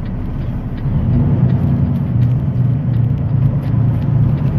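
Semi-truck engine and road noise heard from inside the cab while driving: a steady low drone that gets a little louder about a second in.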